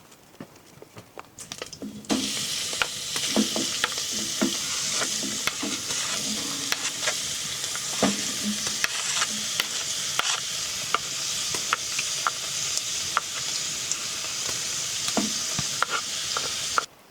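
Food frying in a hot pan: a steady loud sizzle with many sharp pops and crackles. It starts abruptly about two seconds in and cuts off suddenly just before the end. A few light clicks come before it.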